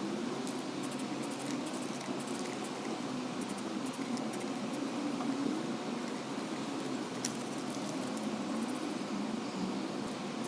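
Homemade belt grinder, driven by an angle grinder, running steadily, its pitch wavering up and down, with scattered light ticks.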